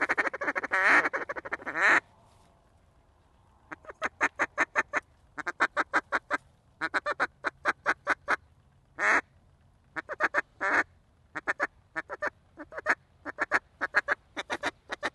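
A hunter's waterfowl call blown hard to work incoming birds. First comes a continuous wavering call lasting about two seconds. After a short pause come long runs of short, sharp notes, about five a second, in groups with brief breaks between them and one longer drawn-out note partway through.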